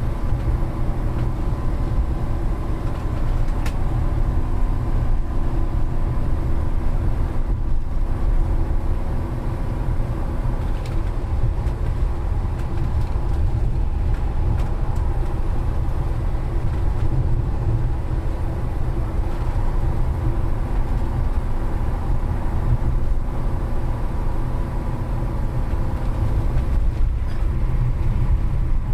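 Steady engine and road rumble of a vehicle being driven, heard as a heavy low rumble with a faint constant hum above it.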